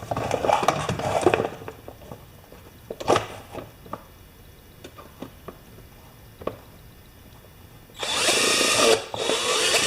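Power drill boring rivet holes in two short runs of about a second each near the end, with a rougher burst of handling and tool noise at the start and a few clicks in between.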